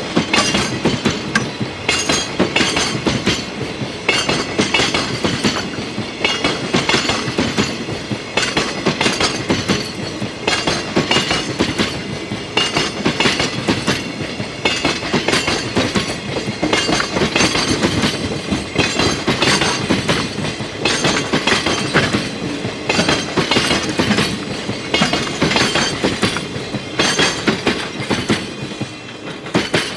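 Container freight wagons passing close at speed, their wheels clattering over the rail joints in a fast, unbroken rhythm. The clatter falls away at the very end as the last wagon goes by.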